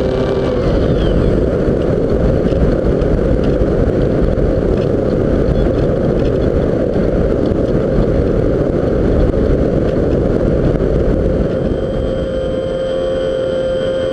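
Strong wind buffeting the microphone with a dense rumble, over a model plane's motor and propeller. The steady whine of the motor comes through clearly again about twelve seconds in, as the wind noise eases.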